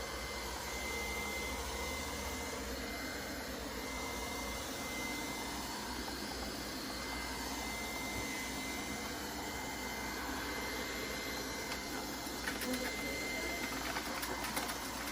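Robot vacuum cleaner running: a steady whirring hiss with a thin, high, constant whine from its motor, and a few light clicks and knocks near the end.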